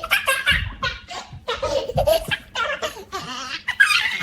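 A baby laughing and giggling in a string of short, high-pitched bursts.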